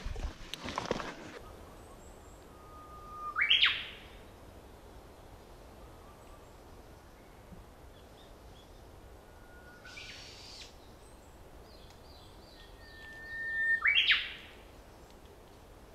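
A forest bird calling twice, about ten seconds apart: each call is a held whistle that ends in a sharp upward sweep.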